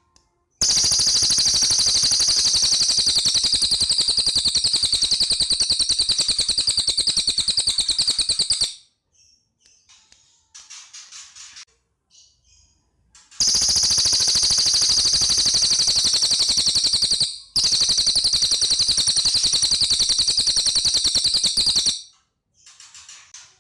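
Cililin bird singing long, loud, high-pitched rapid trills, three in all, each lasting several seconds, like a machine-gun rattle. Between the trills come short, much quieter chirps.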